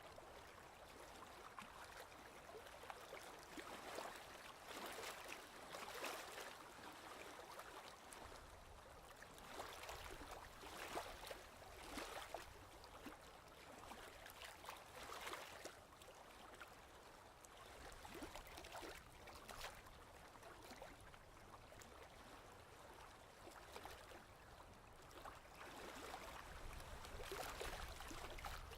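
Faint ocean waves washing in, swelling and fading every second or two.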